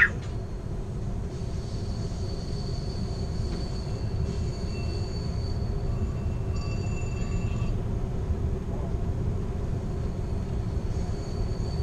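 Amtrak California Zephyr passenger car rolling along, heard from inside at the rear of the train: a steady low rumble of wheels on rail. A thin, steady high squeal comes in about a second in and holds, the wheels squealing on the curving track.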